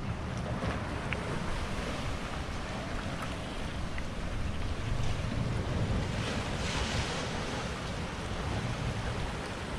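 Ocean surf washing against a volcanic rock shoreline, with a wave surging in about five to seven seconds in, under a low rumble of wind on the microphone.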